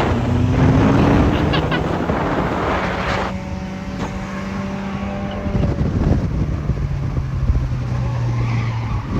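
A car engine running steadily, its pitch stepping down about six seconds in, with a harsh rushing noise over it for the first three seconds.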